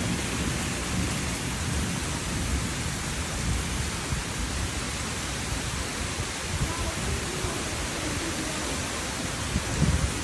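Summer thunderstorm: steady rain with a low rumble of thunder underneath, and a few low thumps near the end.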